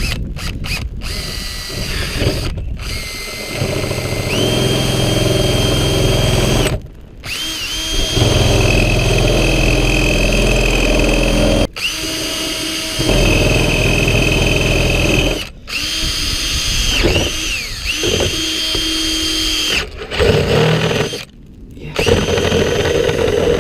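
A power drill running in long bursts, its motor whine rising and falling with the trigger. It stops and restarts about five times.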